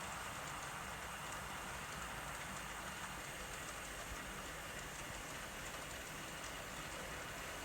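Model train running along the layout track: a steady whir and rumble of motor and wheels on rail.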